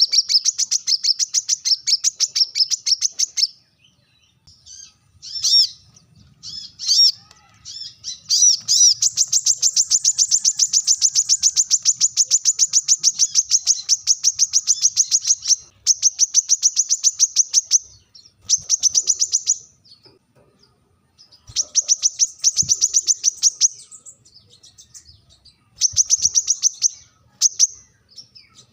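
Brown-throated sunbird giving long, rapid trills of sharp, high chips, about ten a second, in runs of several seconds broken by short pauses. This is its sharp challenge call to a rival male.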